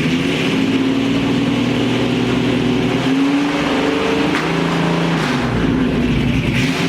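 A car engine running, its pitch stepping up and down a few times as the revs change.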